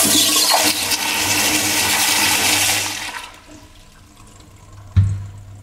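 Sloan flushometer toilet flushing: a loud rush of water for about three seconds that then dies away. A sharp thump follows about five seconds in.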